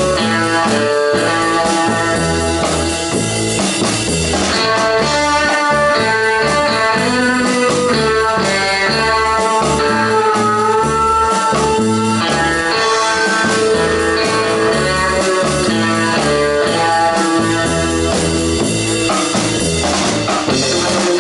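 Live rock and roll band playing an instrumental: an electric lead guitar carries the melody over bass guitar and a drum kit.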